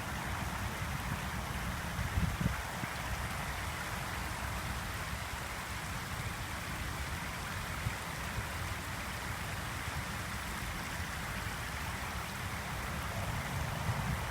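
Steady rushing of flowing water, with a low, uneven rumble underneath.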